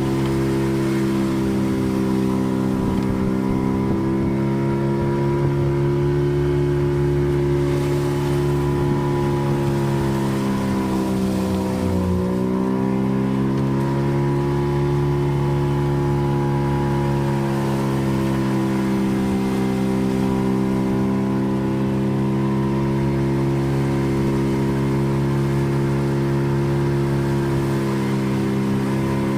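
Fishing boat's engine running steadily under way while trolling, its pitch dipping briefly about twelve seconds in and then climbing back.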